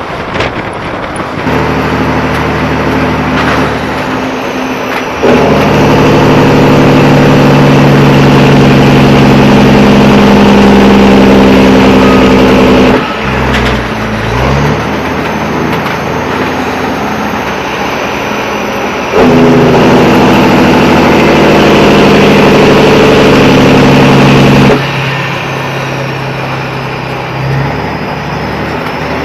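Diesel semi-truck engine running under way. Twice it suddenly turns much louder and harsher for several seconds, then drops back just as abruptly. Between the two loud stretches the engine pitch briefly sweeps.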